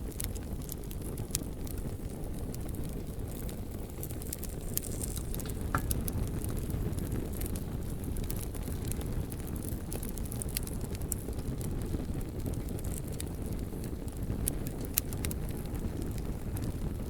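Campfire crackling, with sharp irregular pops scattered throughout, over a steady low rumble of wind and surf.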